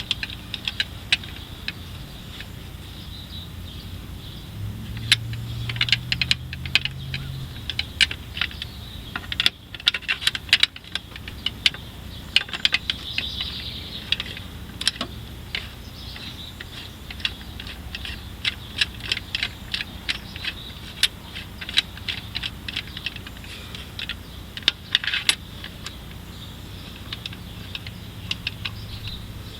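Irregular metallic clicks and clinks of hand tools and bolts, a Torx bit on a long extension, while fastening the intake plenum in the engine bay. A faint low hum runs underneath.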